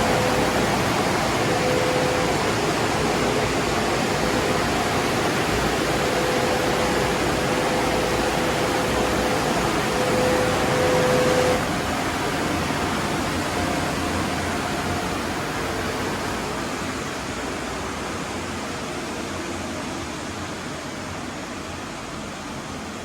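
Automatic car wash tunnel running empty, a steady rushing hiss of its equipment with a faint hum coming and going. About halfway through the sound drops suddenly, then fades slowly.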